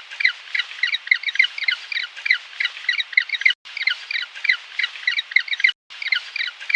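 Penguins calling: a dense run of short, high squawking calls repeated several times a second, broken by two brief gaps.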